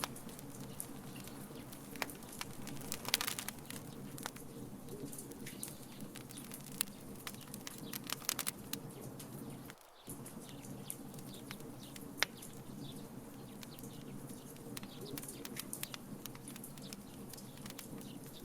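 Wood burning in a fire pit: many sharp crackles and pops over a steady low rush of flame.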